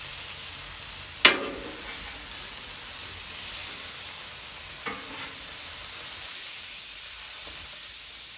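Italian sausages and onions sizzling on a Blackstone flat-top griddle, a steady hiss. A sharp knock sounds about a second in and a lighter one near five seconds.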